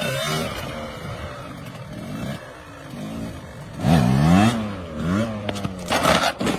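Dirt bike engine revving, its pitch swinging up and down in quick rises and falls, loudest about four seconds in. A short rush of hissing noise comes near the end.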